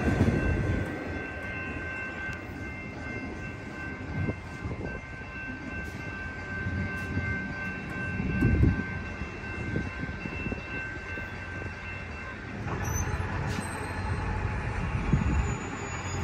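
The tail of a double-stack freight train passes over the crossing and fades away. The grade-crossing warning bells ring steadily until they cut off about three-quarters of the way through, as the crossing gates start to rise.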